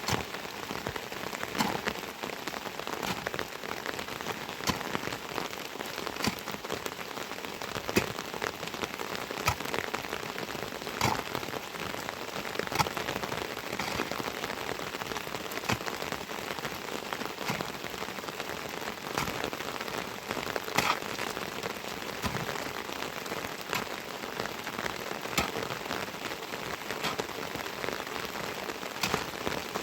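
Steady heavy rain falling, with single drops striking loudly nearby here and there.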